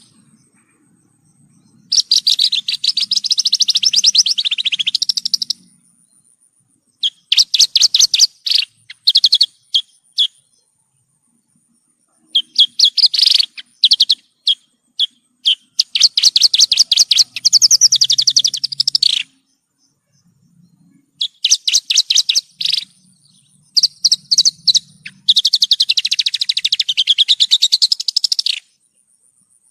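Javan bush lark (branjangan) singing in phrases of rapid, chattering repeated notes, some rising and falling in pitch, each lasting one to several seconds with short pauses between.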